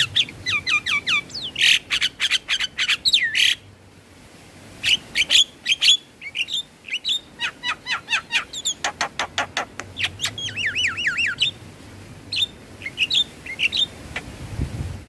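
Javan mynas chattering and whistling: fast runs of harsh chirps, trills and looping whistles, with a short pause about four seconds in.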